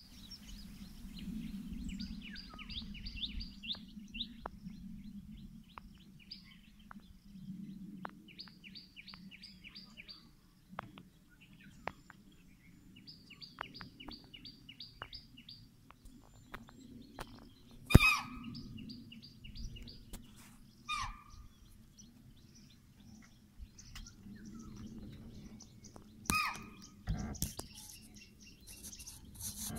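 Wild birds calling: a rapid trill of high notes repeated every few seconds over a low steady rumble. About halfway through come several loud, short calls that drop in pitch.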